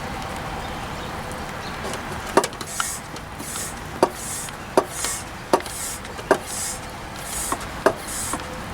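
Mityvac hand pump being worked to push gear oil into a truck's rear axle: a sharp click about every three-quarters of a second from about two seconds in, with a short hiss between strokes. The pump is leaking, which the owner says stops it pushing the last of the fluid out.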